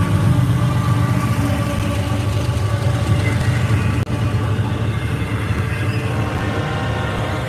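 Freight train passing close by: the deep rumble of the trailing diesel locomotive gives way to double-stack container cars rolling past with a steady low rumble. The sound cuts out for an instant about four seconds in.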